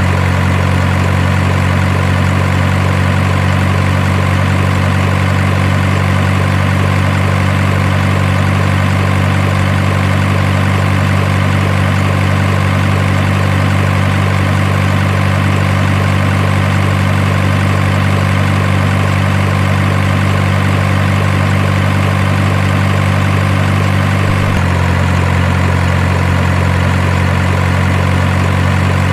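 Deep, steady truck engine idling sound with no revving, unchanging in level, with a small sudden shift in tone about 24 seconds in.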